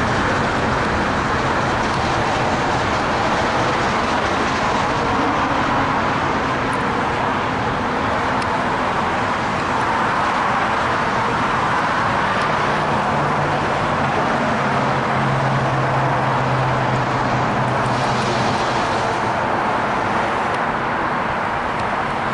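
Freight train passing with a steady wash of wheel and car noise, mixed with road traffic. A diesel locomotive's low engine hum strengthens in the second half as it approaches.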